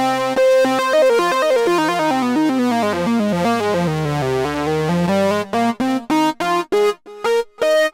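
Korg Prologue analog polyphonic synthesizer playing a keyboard-like custom patch: a fast run of stepped notes falling to a low point about halfway through and climbing back up, then short, detached notes near the end.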